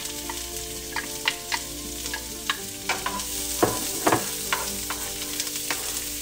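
Diced red onion sizzling in hot oil in a nonstick frying pan as a wooden spoon stirs it, knocking and scraping on the pan; the loudest knocks come a little past halfway.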